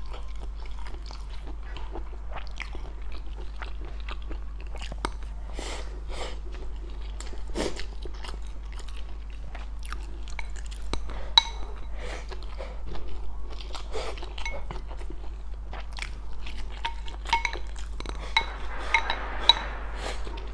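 A person chewing and biting crunchy food from a spicy stir-fried pot (mala xiang guo), close to the microphone, with irregular wet crunches and clicks. A few short ringing clinks come near the end.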